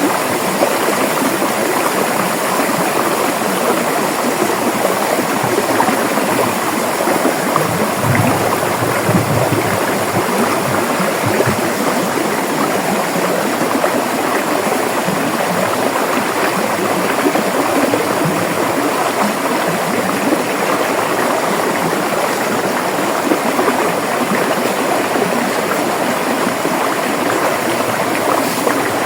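River water flowing and rushing over rocks, a steady, dense rush with a little gurgling.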